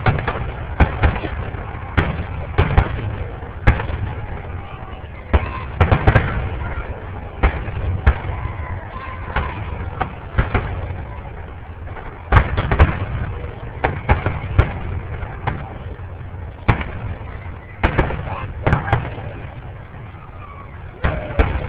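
Fireworks shells bursting, a run of about twenty irregular loud bangs with echoing tails, sometimes two or three in quick succession, over a murmur of crowd voices.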